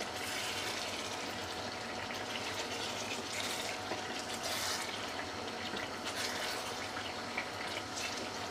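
Chicken pieces and tomato-onion masala sizzling in a pot while being stirred with a wooden spatula. The hiss swells every second or two as the spatula moves through the pot.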